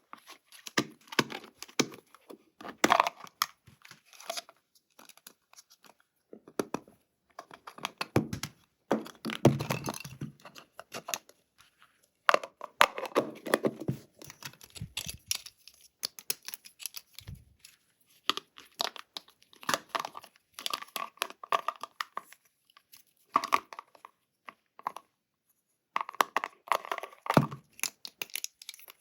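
Toy packaging being opened by hand: tearing and crinkling of plastic and cardboard, with sharp clicks, in irregular bursts separated by short pauses.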